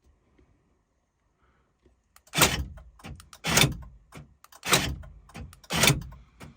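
Four sharp clunks of the BMW E36's door locks, about one a second, starting a couple of seconds in, as the locking is worked over and over. The locks engage, but the door is not opening, a fault the owner has just found.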